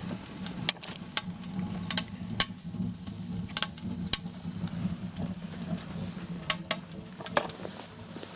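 Firewood crackling and popping in a small homemade wood-burning stove, with irregular sharp snaps over a steady low hum. The crackle is the sign that the fire has caught and the stove is working.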